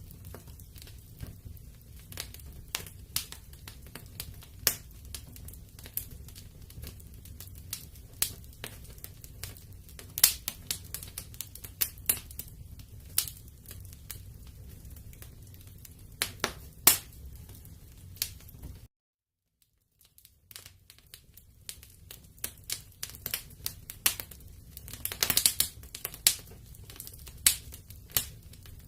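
Wood fire in a fireplace crackling: irregular sharp pops and snaps over a low steady rumble of flames. The sound cuts out completely for a second or so about two-thirds of the way through, then resumes with a dense run of crackles.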